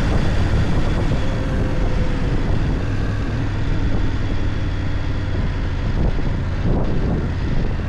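BMW F 900 GS Adventure's parallel-twin engine running steadily, a continuous low rumble under an even rush of noise.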